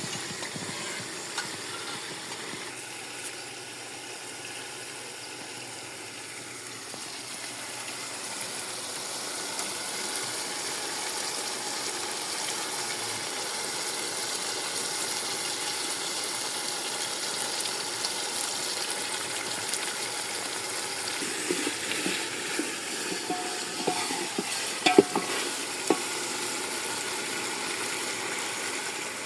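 Food frying in a hot pot, a steady sizzle that grows a little louder about a third of the way in. In the last third come a few knocks and scrapes of a spoon stirring it.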